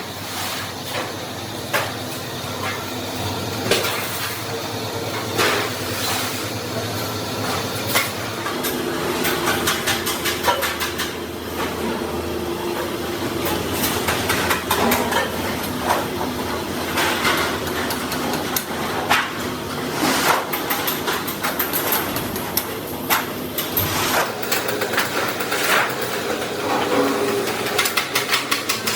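Hammer blows on sheet metal as a motorcycle fuel tank is shaped by hand: sharp strikes at irregular intervals, with a quick run of light taps near the end.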